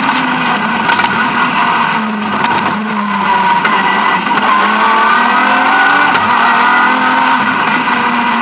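BMW E36 M3 rally car's straight-six engine under hard use, heard from inside the cabin. The engine note dips about two seconds in, then climbs again and holds high.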